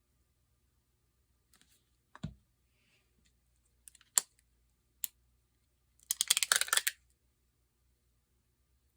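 Small handling noises on a craft table: a dull thump, two sharp clicks, then about a second of rapid clattering ticks.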